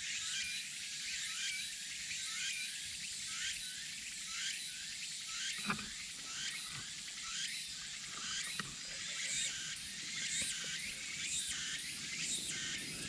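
A chorus of insects calling, a dense high-pitched buzz of rising chirps repeating about twice a second, with one sharp snap a little before halfway and a few faint ticks after it, such as a small campfire gives off.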